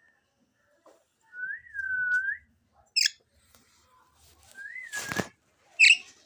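Pet parrot and whistling. Two drawn-out whistled notes sound, one about a second and a half in and one just before five seconds. Short shrill parrot squawks come about three seconds in and again near the end, the last the loudest, and a sharp knock follows just after five seconds.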